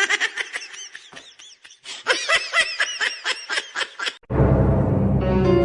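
High-pitched laughter in a quick run of short rising-and-falling bursts, several a second, for about four seconds; music cuts in suddenly near the end.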